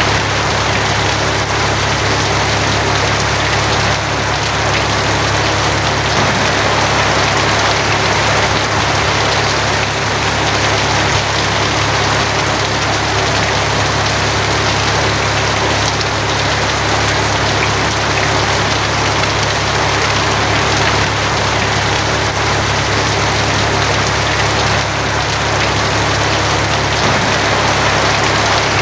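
Steady heavy rain drumming on a tin roof, with a steady low hum underneath.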